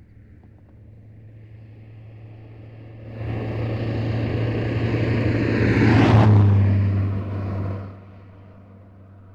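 A car passing by on a country road: it grows louder, goes by with a whoosh about six seconds in, and falls away sharply about two seconds later.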